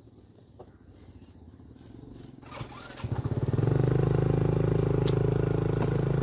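A small motorcycle engine: a faint low putter at first, then about halfway through it picks up and runs loudly and steadily close by.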